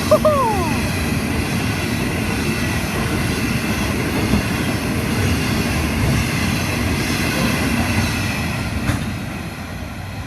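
Freight train wagons rolling past at close range: a loud, steady rumble of wheels on rail that fades near the end as the train draws away. A brief falling squeal sounds at the start.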